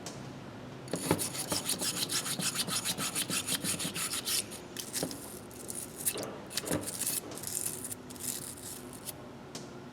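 Rapid back-and-forth scraping on rusty steel pliers by hand, about five strokes a second, starting about a second in and turning irregular about halfway through before tapering off.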